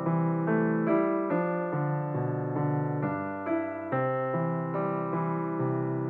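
Background music played on a piano-like keyboard, single notes and chords changing about twice a second.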